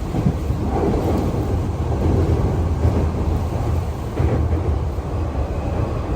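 Typhoon wind gusting over the microphone: a loud low rumble that swells and drops in gusts.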